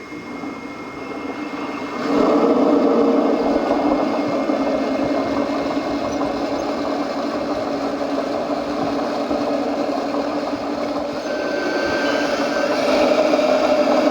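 Small motor of a radio-controlled construction model running with a steady whine. It grows louder at about two seconds and again near the end.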